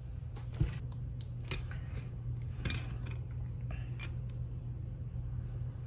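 Scattered light metallic clicks and taps of hand tools and small parts being handled on a metal RC transmission, over a steady low hum.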